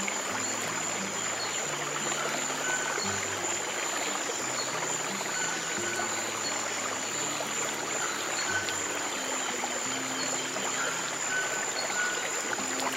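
Steady running water of a stream, with slow, soft low piano notes changing every second or so underneath and a thin steady high tone throughout.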